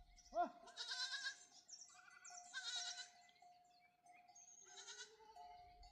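Sheep bleating: about three wavering, high-pitched bleats a second or two apart, over a faint steady tone.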